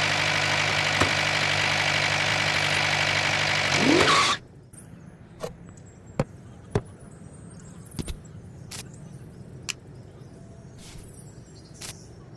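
A motor running steadily with an even hum for about four seconds, rising briefly in pitch just before it cuts off suddenly. After that come scattered light clicks and knocks.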